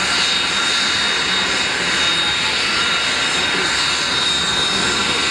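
Aircraft engine running steadily: an even rush of noise with a thin, constant high whine over it.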